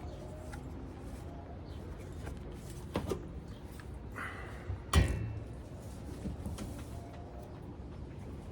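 Two sharp knocks about two seconds apart, the second one near the middle the loudest, with a short hiss just before it, over a low steady hum.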